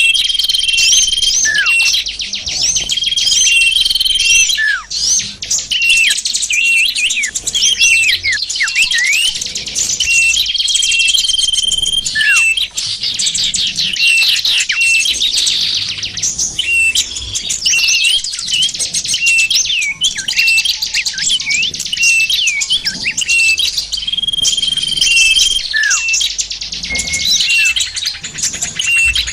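Bird-lure recording of many small songbirds calling at once: dense, overlapping chirps, trills and quick twittering. A held, whistled note of about a second recurs every few seconds over the chatter.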